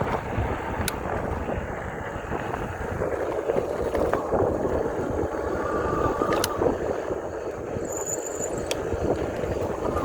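Wind buffeting the microphone over the steady hiss of tyres on a wet road as an e-bike rides along, with a faint thin whine coming and going.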